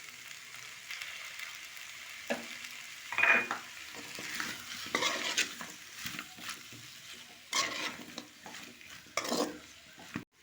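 Chicken pieces in Manchurian sauce sizzling in a pan while a spatula stirs through them, with several louder scrapes against the pan.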